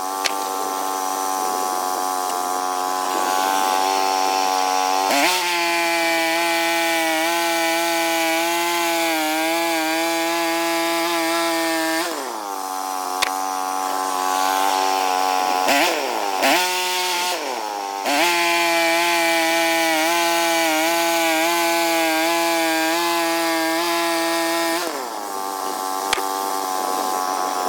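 Small sawmill's engine running under load as it saws through a log, a steady tone that sags in pitch and recovers several times as the load on the blade changes.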